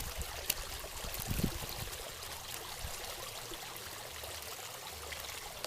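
Steady running, trickling water, with a soft low thump about a second and a half in.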